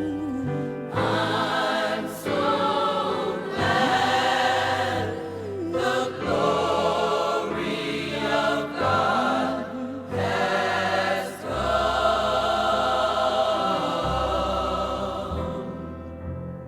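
Gospel choir singing in phrases over a steady bass accompaniment, fading near the end.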